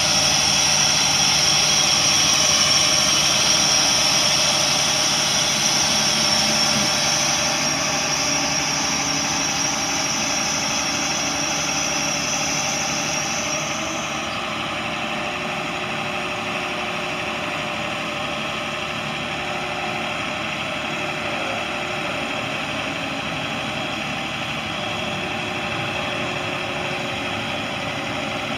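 International DT466 turbo diesel idling steadily, with a high hiss that fades out about halfway through as the overall sound drops slightly.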